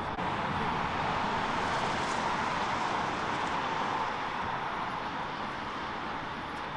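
Steady vehicle noise running without a break, with no single distinct event.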